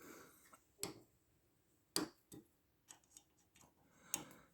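Scattered light clicks and knocks of small hard parts being handled, as the diamond stones and fittings of a knife sharpener are picked up and set down, with the loudest click near the end.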